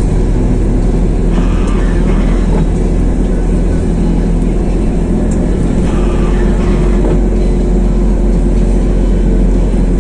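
Motor vehicle engine running at a steady speed: a constant low rumble with a faint hum in it.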